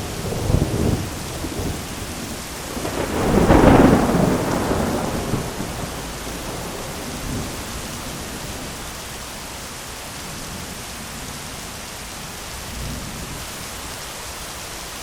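Steady heavy rain falling on an umbrella, with a long roll of thunder that starts at once, is loudest about four seconds in and dies away by about six seconds. A fainter low rumble follows near the end.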